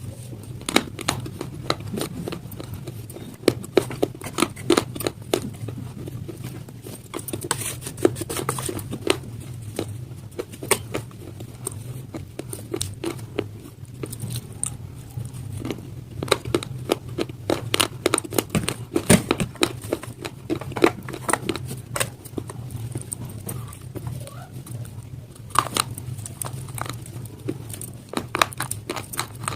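Close-up crunching and chewing of brittle slate stone pieces in the mouth: a steady stream of irregular crisp cracks and crackles, with a constant low hum underneath.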